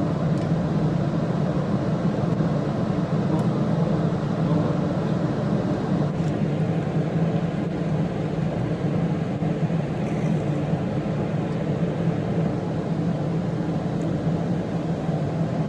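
A steady low mechanical hum that runs unchanged throughout.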